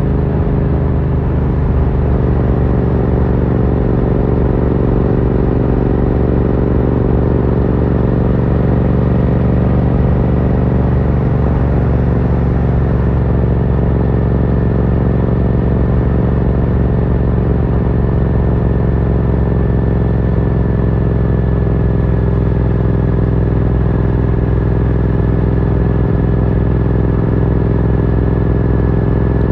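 Yamaha MT-07's 689 cc parallel-twin engine running steadily through an Akrapovic carbon full exhaust, its pitch holding nearly level.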